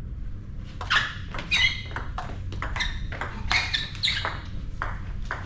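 Table tennis rally: the ball clicks in quick succession off the table and bats, several hits a second, with short squeaks of shoes on the hall floor among them.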